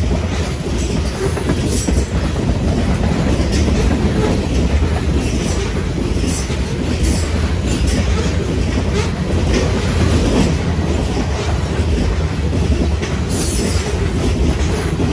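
Loaded freight cars, mostly covered hoppers, rolling past close by with a steady loud rumble and the clickety-clack of wheels over rail joints. A few brief high-pitched wheel squeals break through, the clearest about two-thirds of a second before the end.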